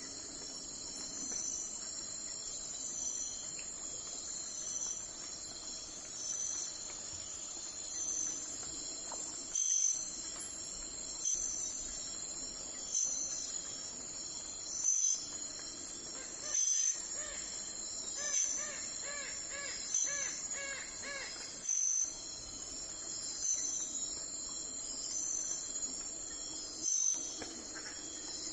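Crickets chirping steadily, with a louder pulse about every second and a half. About two-thirds of the way through, a bird gives a quick series of about six repeated notes.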